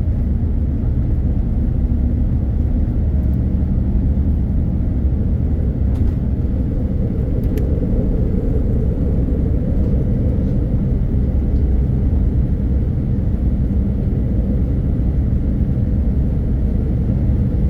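Steady low rumble of a Boeing 787-9 Dreamliner during take-off, heard from inside the cabin.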